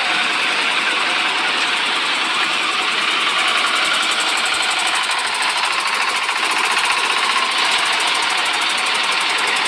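Volvo heavy truck's diesel engine running steadily, heard close, with a fast, even clatter.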